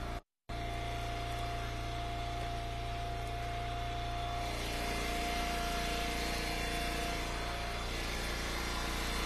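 Engine of an Eastonmade Ultra hydraulic wood splitter running steadily with a constant hum. The sound cuts out for a moment just after the start.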